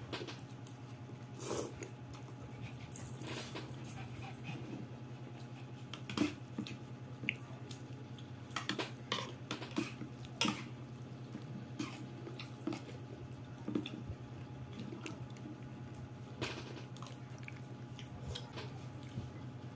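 Close-up eating sounds: lomi noodles slurped and chewed, with scattered short clicks and smacks, some likely the fork on the bowl, over a steady low hum.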